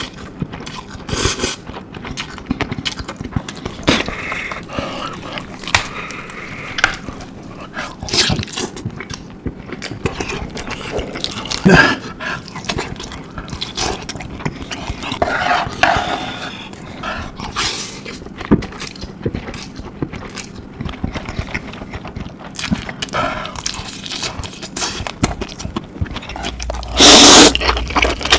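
Close-miked eating sounds of spicy noodles: scattered wet clicks, smacks and breathy slurps, with two loud noisy slurp-like bursts near the end.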